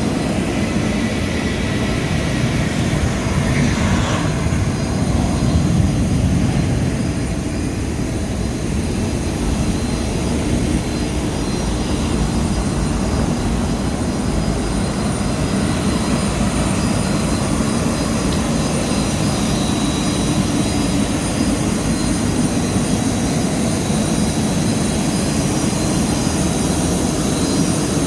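Steady jet aircraft noise on an airport apron: a constant turbine whine with several high steady tones over a low rumble, swelling slightly about four to six seconds in.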